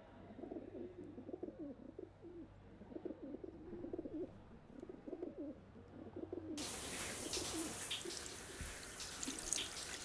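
Pigeons cooing in a low warbling run. About six and a half seconds in, a steady hiss of rain with scattered drips cuts in suddenly.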